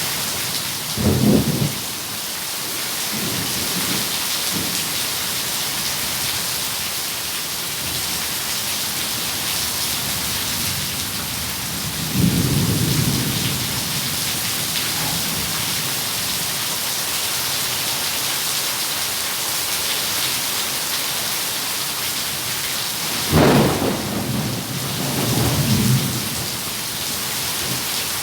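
Steady rain hissing, with low rolls of thunder. One comes about a second in, another near the middle, and a longer double roll near the end.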